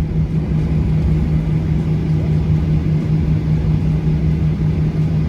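Steady drone inside a Boeing 737-800 airliner cabin after landing: a constant engine hum over a low rumble.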